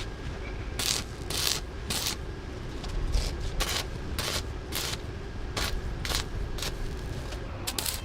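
Short, irregular scraping strokes, about one or two a second, over a steady low rumble.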